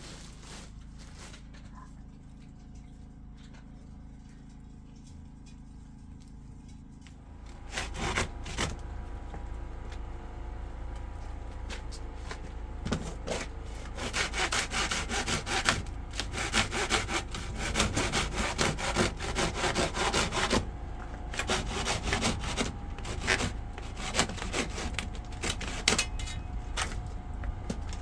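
A low steady hum, then from about eight seconds in, fast repeated rasping scraping strokes that keep going, like sawing or scraping.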